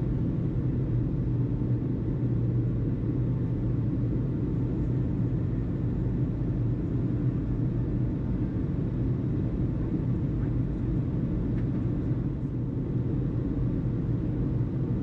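Steady low rumble with no change in level, and no radio transmission.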